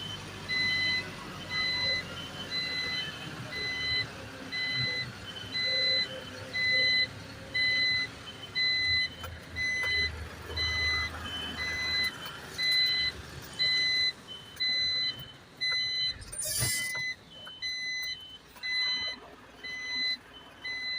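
Isuzu garbage truck's reversing alarm beeping steadily, about one beep a second, over the low rumble of its engine as the truck backs up. A brief sharp noise cuts in about three quarters of the way through.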